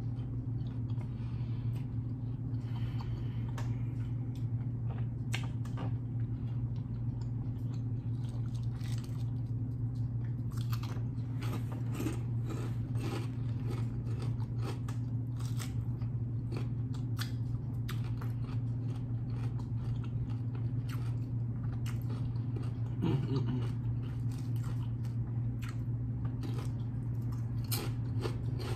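Close-miked chewing of a tuna wrap with kettle chips: wet chewing with many sharp, crisp crunches throughout, over a steady low hum.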